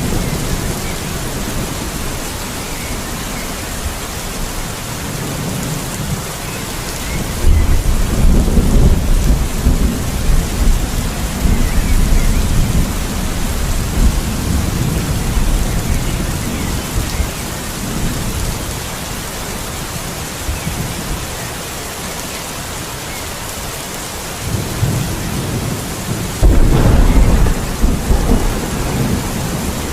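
Steady rain with thunder rumbling twice: a long roll begins about a quarter of the way in and rumbles on for several seconds, and another builds near the end, its loudest crack coming in the last few seconds.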